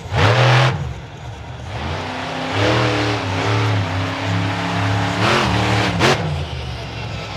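Monster truck engine revving hard, its pitch rising and falling with the throttle, with sharp blips just after the start and about six seconds in.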